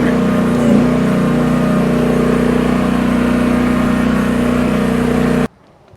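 Small Briggs gasoline engine of a Shandong HT10 mini excavator running steadily with an even drone, cutting off abruptly about five and a half seconds in.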